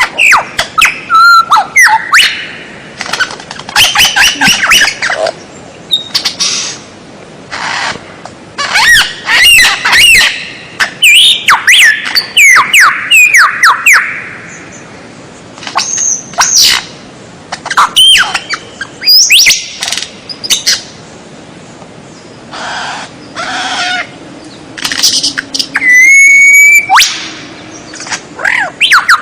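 Loud songbird song: quick chirps, squawks and sharp whistled notes in varied phrases with short pauses. Near the end comes one longer held whistle.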